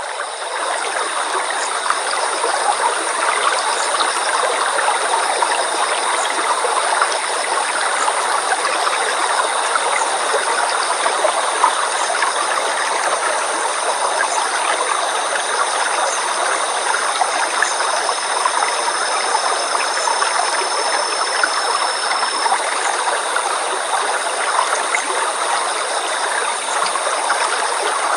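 A stream or small river flowing steadily over rocks, a continuous splashing rush of water.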